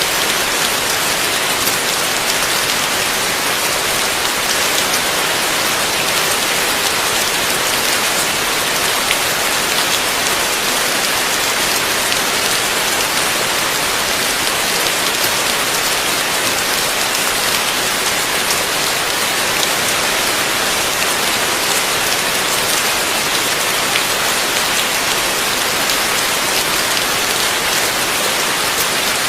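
Heavy rain falling steadily, a dense even hiss of many drops hitting a surface, with no thunder.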